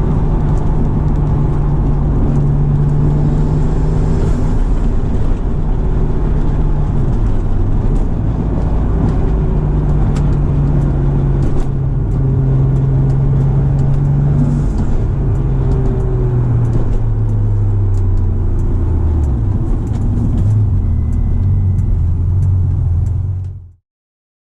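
Twin-turbocharged Acura NSX V6 running while the car is driven, over a steady low rumble. The engine note holds fairly even, then settles lower for the last several seconds before the sound cuts off abruptly near the end.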